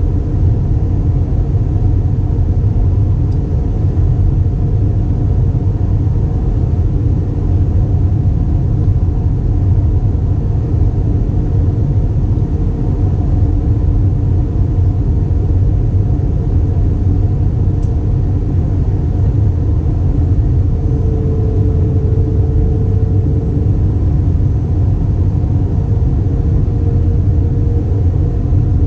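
Airbus A320 heard from inside the passenger cabin in flight: a steady, even rumble of engines and airflow, with a faint hum riding on top.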